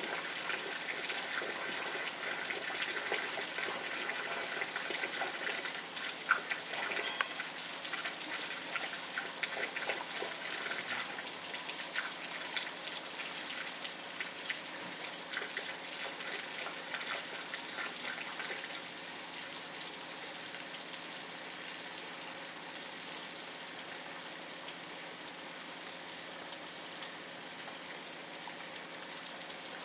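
Steady rain, a dense hiss of falling drops with scattered sharper drips. It softens and evens out about two-thirds of the way through.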